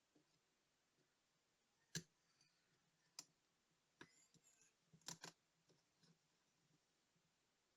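A few sharp, faint clicks and taps of small tools and tiny parts being handled while a digital watch is taken apart, the loudest about two seconds in and a quick double click about five seconds in.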